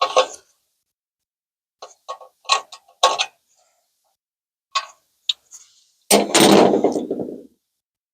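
Hand tools working a bumper nut and bolt: a series of short metallic clicks, some in small clusters, then a longer, louder rattling scrape about six seconds in.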